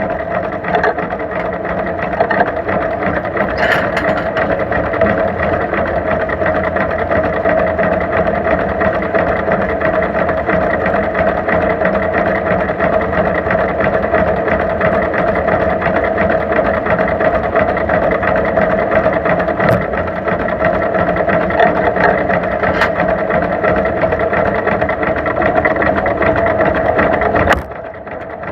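Vintage John Deere two-cylinder tractor engine running steadily with a fast, even beat, dropping away sharply about a second before the end.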